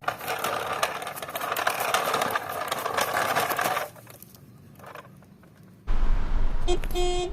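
Small toy cars being rummaged and handled: dense scraping and clattering with many sharp clicks, which stops about four seconds in. Near the end comes a low rumble with a short, high pitched squeak.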